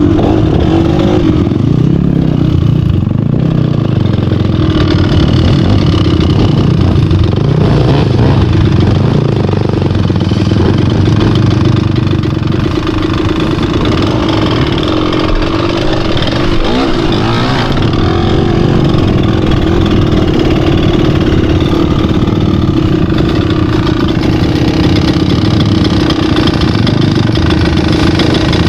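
Off-road vehicle engine running steadily, idling and revving at times, during a river crossing.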